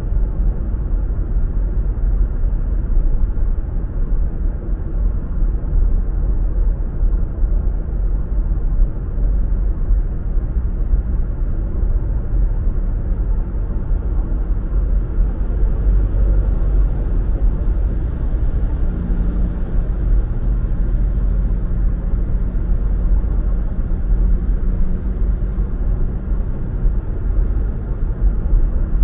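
Steady low road and engine rumble of a car driving in traffic. A low hum and a faint higher hiss join about two-thirds of the way through.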